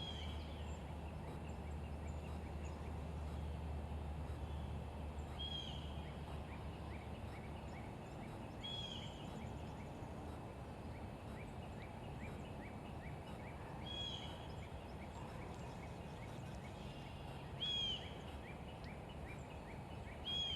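A bird gives a short, sharp call every three to five seconds, six times in all. Between the calls runs a fast string of faint short chirps, over a low steady rumble that weakens about eight seconds in.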